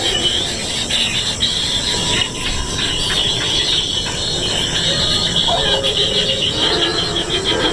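Kingfisher nestlings begging for food: a continuous, rapid, high rasping chatter.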